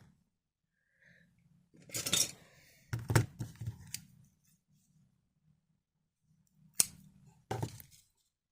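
Scissors snipping the yarn to fasten off a finished crochet round, with a few sharp clicks and clinks as tools are handled and set down.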